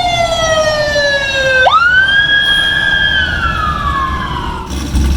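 Emergency vehicle siren wailing. Its pitch falls slowly, sweeps quickly back up about one and a half seconds in, holds high, then falls slowly again. A low rumble of traffic sits underneath.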